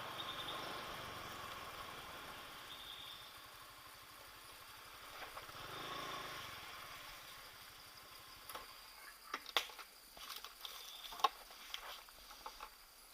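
A motor vehicle's engine passing and fading away, followed from about two-thirds of the way in by scattered light clicks and steps.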